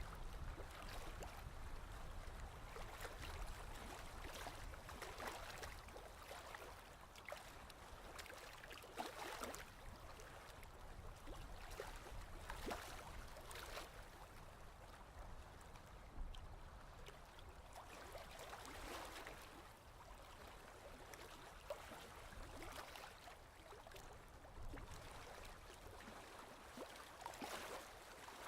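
Ocean waves washing in softly, a surge of noise swelling and falling away every few seconds.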